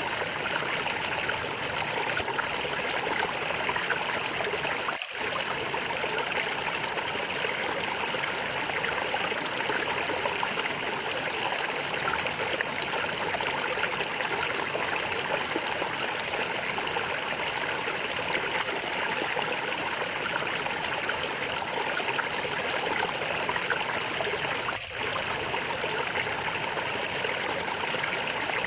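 Stream water flowing and gurgling steadily. There are two momentary dips in level, one about five seconds in and one a few seconds before the end.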